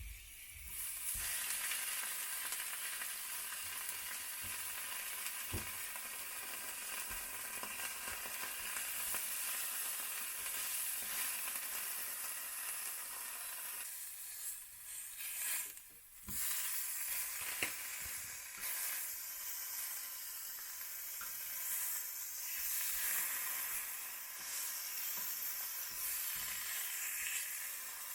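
Food sizzling as it fries in a pan, starting suddenly at the outset and dipping briefly about halfway through before carrying on, with a few light utensil clicks.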